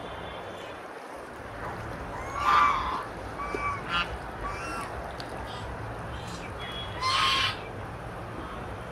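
Canada goose honking: a handful of short calls, the loudest about two and a half seconds in and another strong one about seven seconds in, over a steady low background noise.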